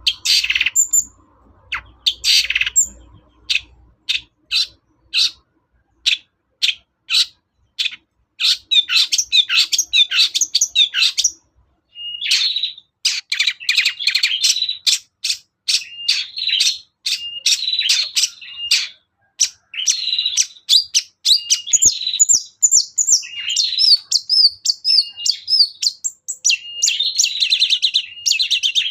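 Long-tailed shrike (cendet) singing: a run of short, sharp, evenly spaced notes, about two a second, then a fast, varied chattering song of mixed whistles and trills from about a third of the way in.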